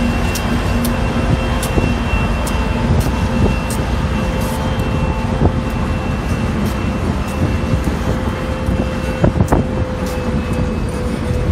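BNSF freight train passing close by: diesel locomotives, including an SD70MAC, run past with a steady engine hum over a heavy rumble. Open hopper cars follow, their wheels clicking over rail joints at irregular intervals.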